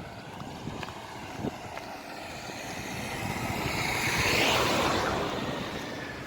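A vehicle passing by: its noise swells to a peak about four seconds in and then fades, over a steady rumble of wind on the microphone.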